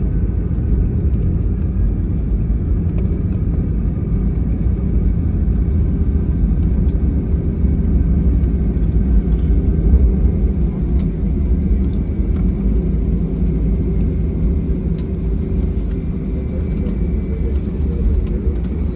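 Steady low rumble inside an airliner cabin as it taxis after landing, with the jet engines at idle, plus a few faint clicks.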